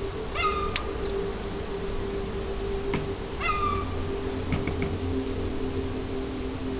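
A seagull calling twice, about three seconds apart: short mewing calls that slide down in pitch.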